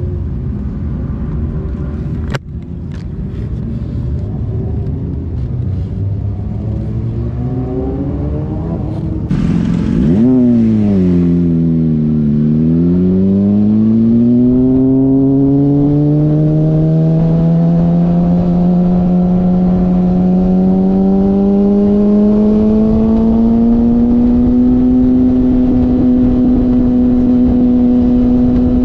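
Motorcycle engine under way: a low rumble at first. About ten seconds in, its pitch dips, then climbs steadily for a dozen seconds as it gathers speed, and holds at a steady higher note near the end. A single sharp click sounds about two seconds in.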